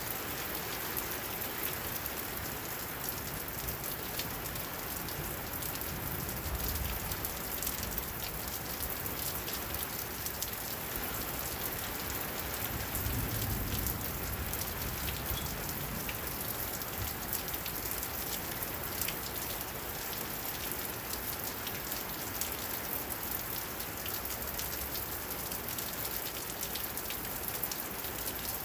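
Steady rain falling, with a dense spray of fine ticks from individual drops landing on wet surfaces.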